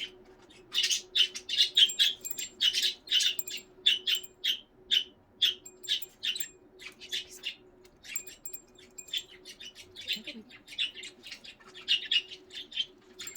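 Pet budgerigars chirping and squawking: a rapid run of short, sharp calls, several a second, with brief lulls.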